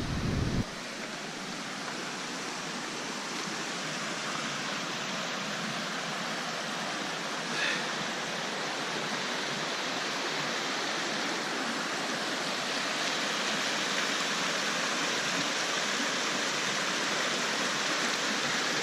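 Mountain creek rushing steadily, slowly growing louder. Wind buffeting the microphone stops just under a second in, and a brief high chirp sounds about eight seconds in.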